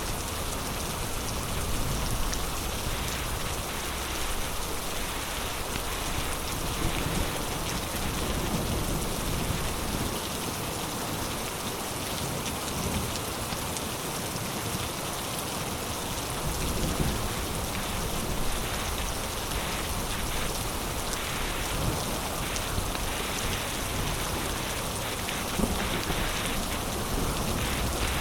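Heavy rain pouring steadily in a storm, a dense even hiss of rain on surfaces, with scattered sharper drop hits standing out now and then.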